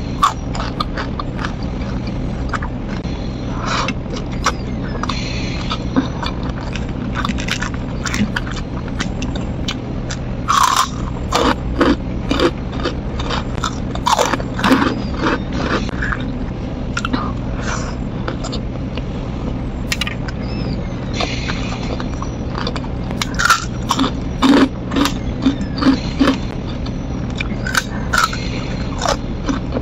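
Close-miked eating by hand: chewing and crunching of crisp fried food, with many short sharp clicks and crackles from the mouth, over a steady low hum.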